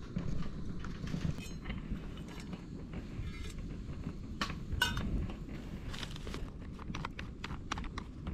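Camp cookware being handled while rice is cooked: scattered light clicks and knocks, with a quicker run of them near the end, over a steady low rumble.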